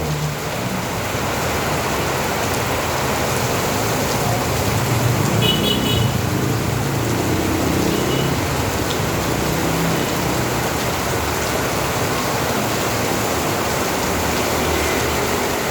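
Steady rain falling and splashing, with a vehicle engine humming low in the first half and a brief high chirp about six seconds in.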